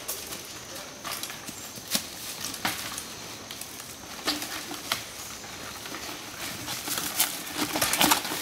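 Mountain bikes and riders' feet knocking over rock in a rock garden: irregular sharp clicks and clacks, more frequent near the end.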